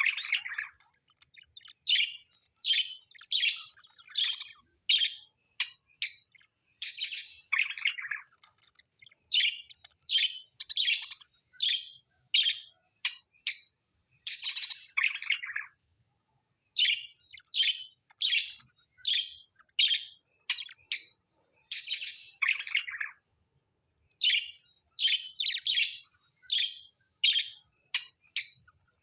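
Birds chirping in a steady series of short, high-pitched calls, one or two a second, with now and then a longer call that slides down lower, and a couple of brief pauses.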